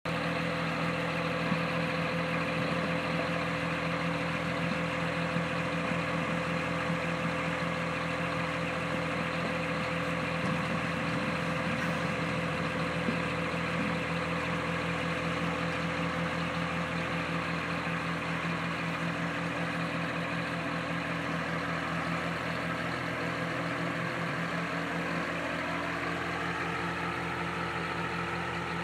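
Scania truck's diesel engine running steadily while it tips a loaded container to unload it. About 25 s in, a whine rises in pitch and then holds higher.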